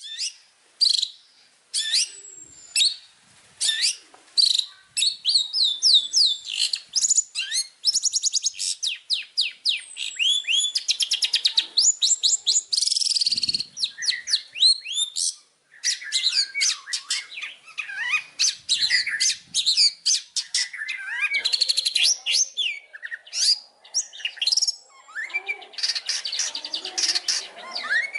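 Long-tailed shrike (cendet) singing a fast, varied song packed with mimicked phrases of other birds: quick runs of high chirps, whistled glides and trills, with a dense buzzy burst about thirteen seconds in.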